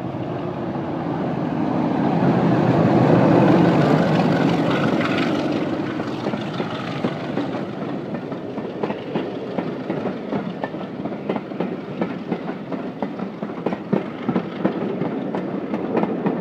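Class 33 diesel locomotive passing at speed, very loud, its Sulzer eight-cylinder diesel engine loudest about three to four seconds in. It then gives way to the train's wheels clicking steadily over the rail joints as it rolls by.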